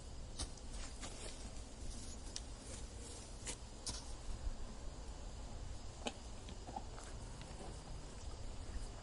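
Faint outdoor ambience: a low steady rumble with scattered sharp clicks and ticks.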